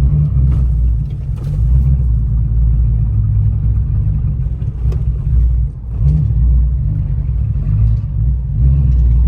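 Chrysler 300's Hemi V8 running as the car drives, a heavy low rumble of engine and road, easing briefly just before six seconds in and picking up again.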